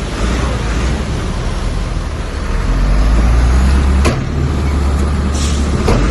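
Heavy diesel earthmoving machinery running, a deep steady engine rumble, with a sharp clank about four seconds in, another near the end, and a short hiss between them.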